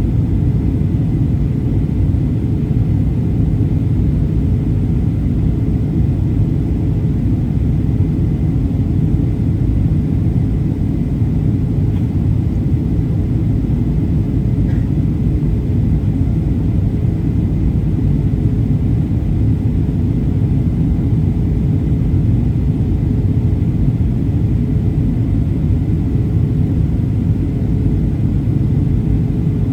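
Cabin noise inside a Boeing 737-800 in flight: the steady rumble of its CFM56-7B engines and the airflow over the fuselage, with a faint steady hum over it.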